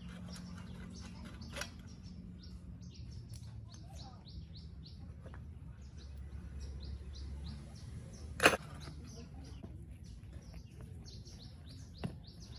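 Small bird chirping steadily, short high falling notes several a second, over a low hum. A single sharp knock about eight and a half seconds in, with two fainter knocks, as the mini motorbike's rear wheel is taken off.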